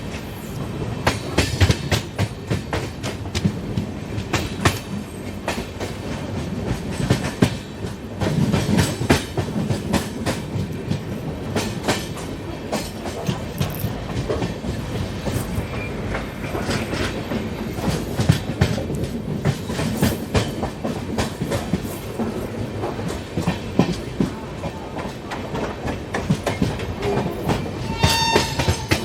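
Shatabdi Express coach wheels clattering over rail joints, heard from aboard the moving train: a continuous run of sharp clicks over a low rumble. A brief high ringing tone sounds near the end.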